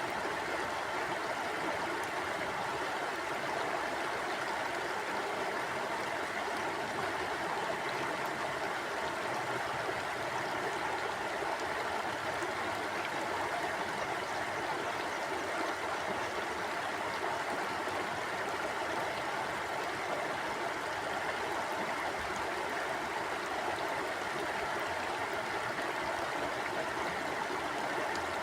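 Mountain stream flowing over rocks: a steady, even rush of water with no breaks or changes.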